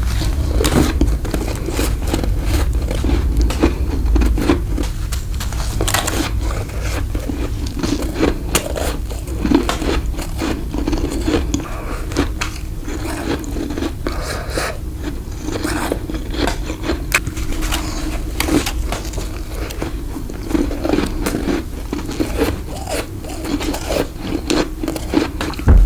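Close-miked bites and chewing of freezer frost (frost grown in a deep freezer with a humidifier), a run of irregular crunches one after another.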